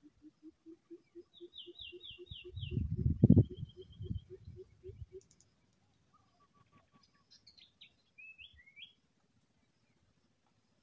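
Forest birds calling: a low note repeated about four times a second for the first five seconds, a quick run of five falling chirps and a short high trill about two to three seconds in, and more scattered chirps near the end. A low rumble about three seconds in is the loudest sound.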